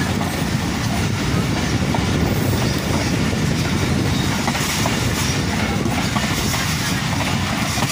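Passenger train coaches running at speed, heard from beside an open coach window: a steady rumble and rush of wind with wheels clacking over the rail joints.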